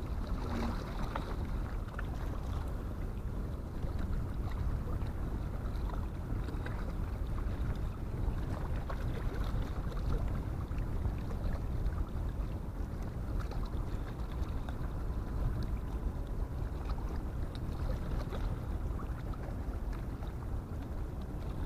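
Steady low rumble of wind on the microphone over harbour background noise, with no distinct events standing out.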